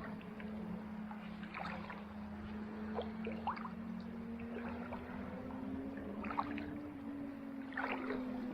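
Kayak paddle dipping into calm sea water, about five soft splashes and drips spread a second or two apart, over a steady low hum.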